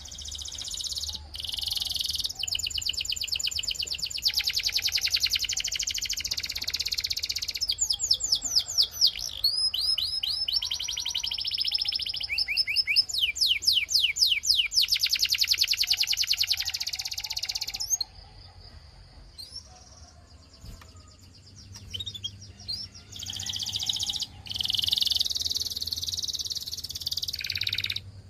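Canary singing: long, fast rolling trills and quick rising chirps, high-pitched, broken by a pause of a few seconds about two-thirds of the way through, then resuming.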